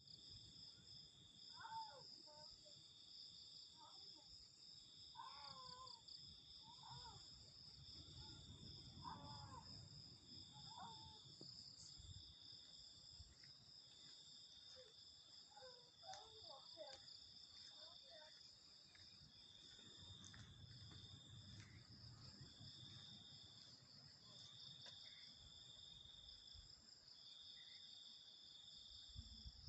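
A steady insect chorus: a high chirring that swells and fades about once a second over a continuous higher trill. Faint, short wavering calls rise and fall through it at several points, most in the first half.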